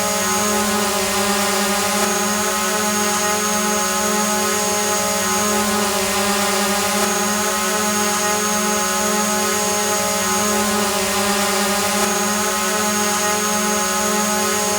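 Multirotor drone hovering: a steady buzzing whine of its propellers and motors, holding several pitches at once over a hiss. A thin high whistle drops out and comes back a few times.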